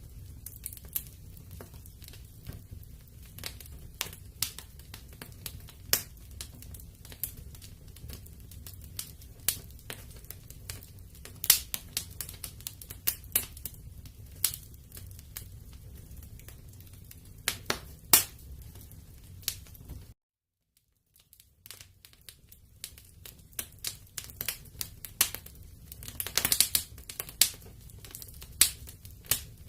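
Wood fire crackling in a fireplace: irregular sharp pops and snaps over a low steady rumble of burning. The sound drops out to silence for about a second and a half roughly two-thirds of the way through.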